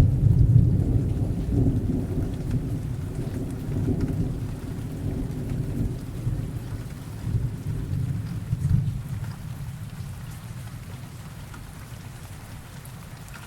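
Rolling thunder over steady rain: a long low rumble that swells several times, loudest in the first second and again about nine seconds in, then dies away near the end, leaving the rain.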